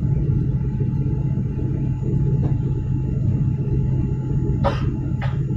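Steady engine rumble heard inside a jet airliner's cabin, with two short sharp clicks about half a second apart near the end.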